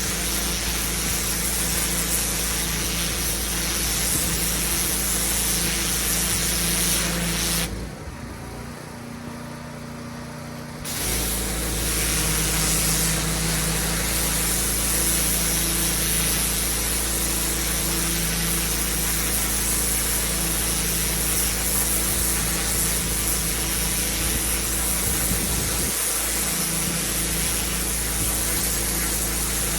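Pressure washer running steadily, its engine humming under the loud hiss of high-pressure water spraying onto block paving. The sound drops away for about three seconds, about eight seconds in, then resumes.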